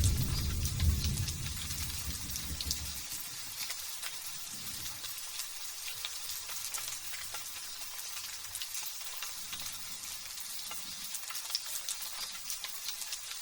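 Light drizzling rain falling steadily, a fine crackle of many small drops. A low thunder rumble dies away over the first three seconds.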